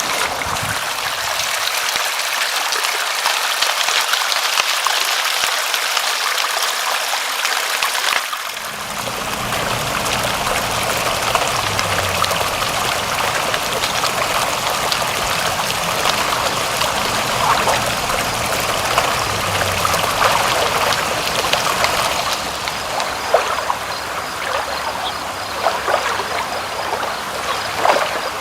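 Steady running, trickling water, an even hiss. About eight seconds in it changes to a fuller, deeper flow, and a few sharper drips stand out in the second half.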